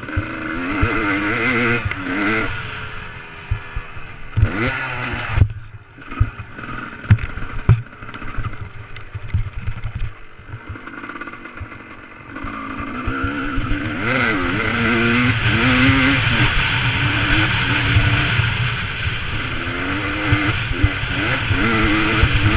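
Motocross bike engine revving up and down as it is ridden, the pitch rising and dropping with throttle and gear changes. It eases off for several seconds about a quarter of the way in, then pulls hard again from about halfway on. Short low knocks run throughout.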